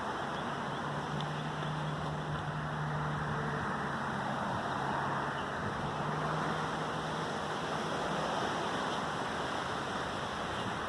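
Steady outdoor ambience, an even wind-like hiss, with a faint low steady hum that comes in about a second in and fades out before the end.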